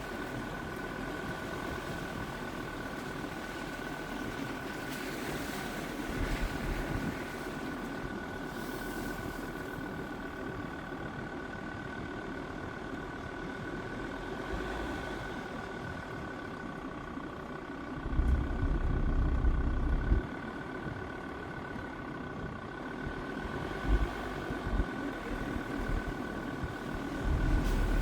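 Jeep Grand Cherokee WJ's 2.7 CRD five-cylinder turbodiesel running steadily, with a constant whine over it. Heavy low rumbles come in for a couple of seconds about two-thirds of the way through and again near the end.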